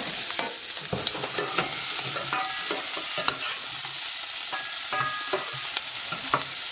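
Onions and diced bacon sizzling in oil in a stainless steel saucepan, stirred with a metal slotted spatula that scrapes and clicks against the pan many times.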